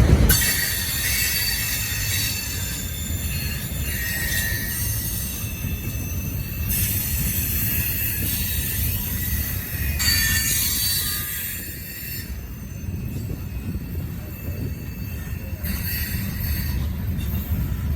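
Freight train rolling past, its wheels squealing in several thin high tones over a steady low rumble from the cars on the rails.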